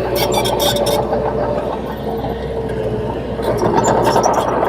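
Komatsu D30P crawler bulldozer's diesel engine running steadily under work, with a wavering squeal and a quick run of metallic clinks in the first second.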